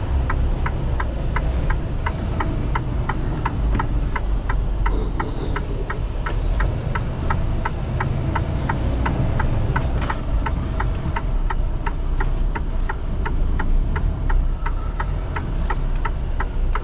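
A 2024 Freightliner truck's diesel engine runs at low speed with a steady rumble, and a regular ticking repeats about three times a second.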